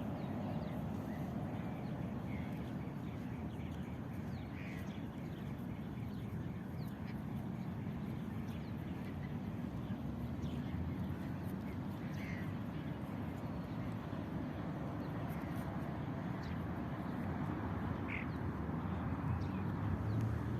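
Birds calling: a few short, scattered chirps over a steady low rumble, with harsher calls that may be starlings or ducks.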